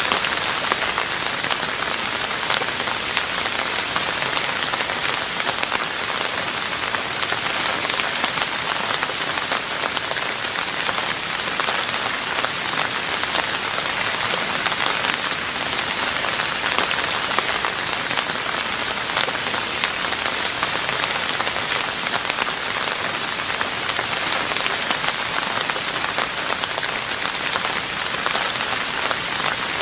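Steady rain falling on a roof, a dense even patter of many small drop impacts.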